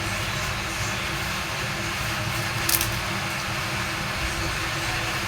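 Steady rain falling, an even hiss with no break, and one short sharp click a little past halfway.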